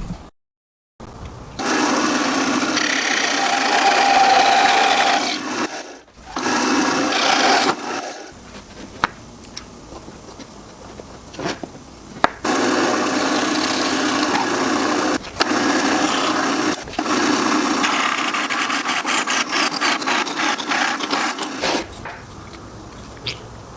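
Power tool working wood, running in several bursts of a few seconds each with quieter gaps and a few knocks between.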